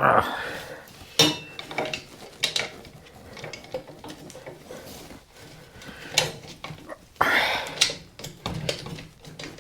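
Metal hand tools clinking and scraping, several sharp clinks in all, as wrenches and sockets are tried on a seized, corroded exhaust nut.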